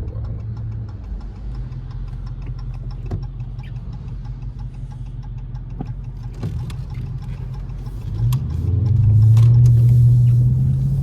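Dodge Charger R/T's 5.7-litre V8 heard from inside the cabin, running low and steady while rolling along, then revving up and getting clearly louder about eight seconds in and holding that higher note.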